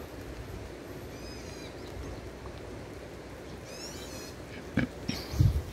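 A bird calling twice, each call a short series of quick high chirping notes, over a steady outdoor background hiss, with a few soft thumps near the end.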